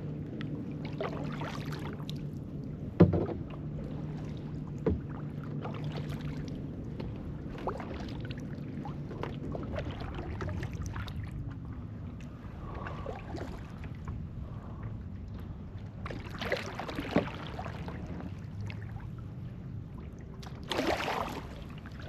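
Kayak paddle strokes in calm water: repeated soft splashes and drips every second or two, with a sharp knock about three seconds in.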